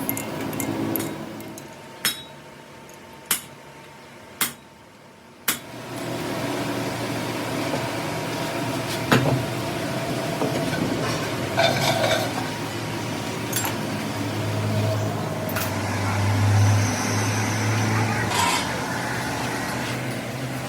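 Workshop metalwork: four sharp metal knocks about a second apart, then a machine starts up and runs steadily with a low hum, with scattered metal clinks over it.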